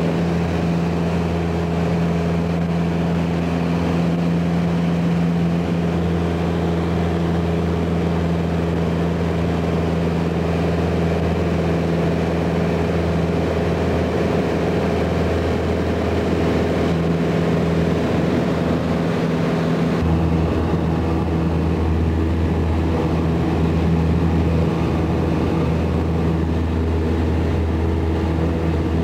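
Small propeller plane's piston engine droning steadily, heard from inside the cabin, with a slight shift in pitch about twenty seconds in.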